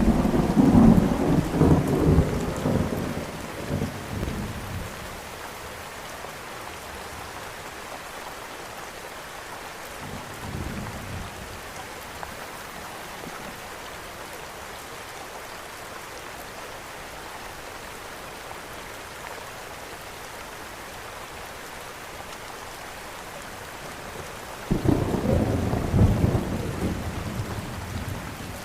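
Steady rain with rolls of thunder: a loud deep rumble lasting about four seconds at the start, a faint one about ten seconds in, and another loud roll beginning near the end.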